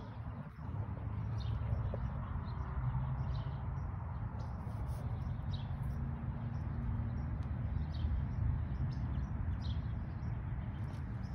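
Small birds chirping intermittently with short, high chirps, over a steady low background rumble.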